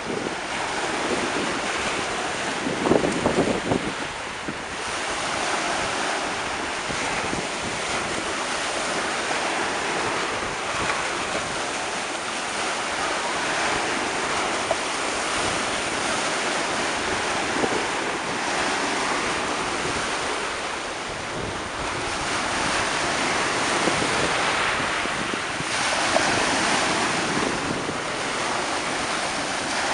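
Black Sea surf washing onto the beach, a steady rush that swells and eases as waves come in, with wind buffeting the microphone, strongest about three seconds in.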